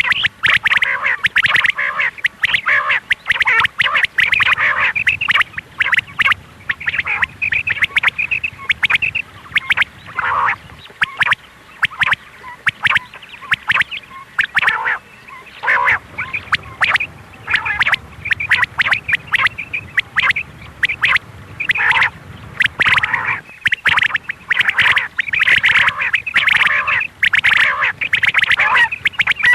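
Female quail calling over and over in quick, dense runs of short calls, with only brief pauses: a recorded call of the kind played to lure male quail.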